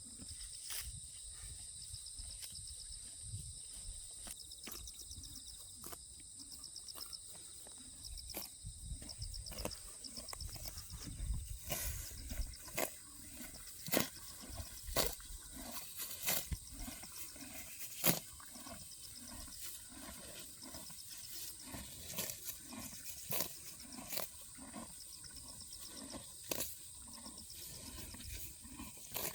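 Horses grazing close by, tearing off grass and chewing in irregular crunching snaps that grow frequent about a third of the way in. Crickets or other insects trill in pulses during the first part.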